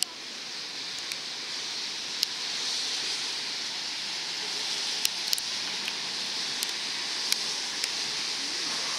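Light rain falling: a steady hiss that grows a little louder over the first few seconds, with scattered sharp taps of single drops striking nearby.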